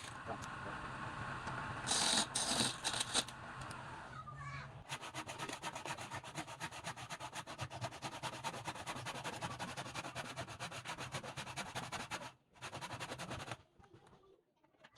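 A lathe runs with a steady low hum while something is rubbed or sanded against the turning workpiece. From about five seconds in this becomes a fast, even scraping rhythm, which breaks off briefly near the end and then stops.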